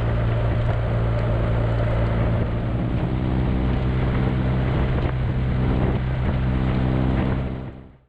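Motorcycle engine running at a steady speed with wind rushing over the microphone; the sound fades out near the end.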